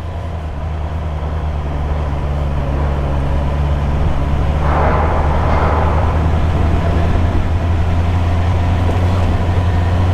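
Engine running at a steady speed, a low even drone that fades in at the start. A brief rush of hiss comes through about five seconds in.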